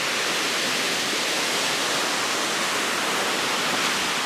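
Surf on an ocean beach: a steady rushing hiss with no breaks.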